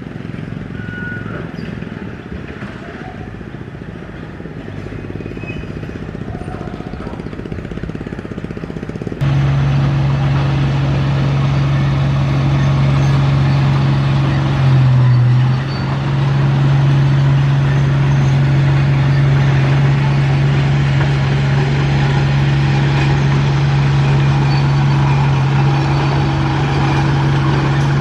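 Diesel engine of heavy earthmoving equipment running steadily. About nine seconds in, the sound jumps suddenly louder to a strong, steady engine drone that holds, with a brief dip around fifteen seconds in.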